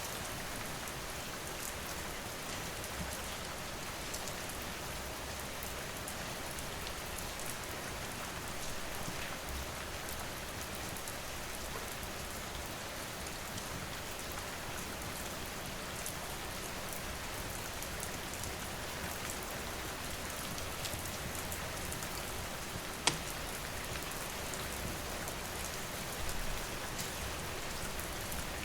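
Steady rain falling on surfaces, with scattered small clicks and one sharp snap about 23 seconds in.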